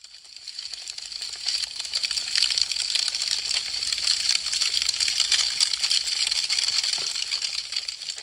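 Wood fire crackling: a dense, rapid stream of small crackles and pops that swells up over the first second or two and dies away near the end.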